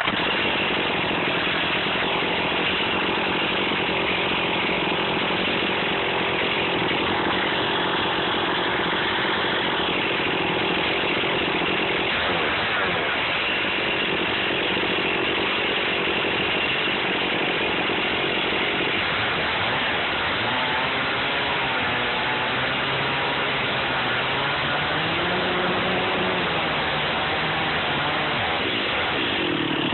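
Stihl MS460 Magnum two-stroke chainsaw running at high speed, picked up very close by a phone mounted on the saw itself, with the engine's pitch wavering up and down as the chain cuts through a black locust log.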